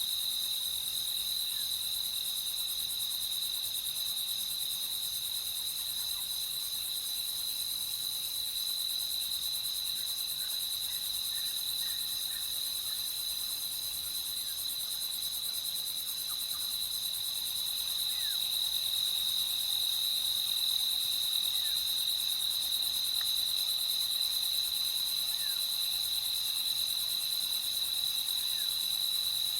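A steady night chorus of crickets singing, a continuous high trill, with faint short chirps scattered through it.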